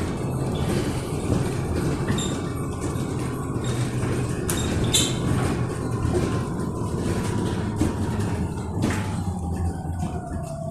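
Electric bus in motion heard from inside: steady rumble of tyres and running gear with the electric drive's thin whine, which slowly falls in pitch toward the end as the bus slows. A few sharp clicks or rattles come in midway.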